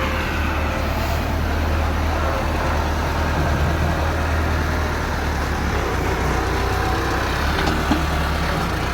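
Heavy diesel machinery engine running steadily with a deep, even hum, and one light knock near the end.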